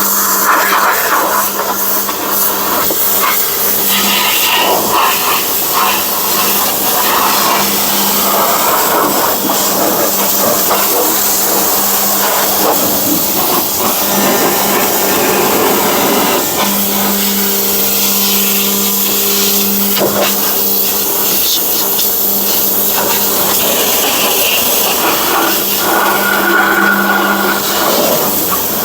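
Pressure washer running with a steady hum under the loud hiss of its water spray. The spray sound shifts as the jet is moved about.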